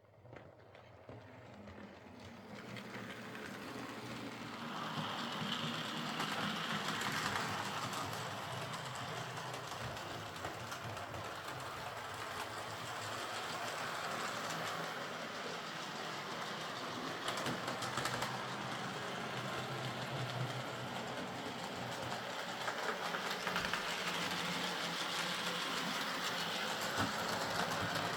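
Hornby OO gauge Class A4 model locomotive running on DC track after repair of its valve gear: a steady motor whir and wheel rattle. It fades up over the first few seconds and then rises and falls in level twice.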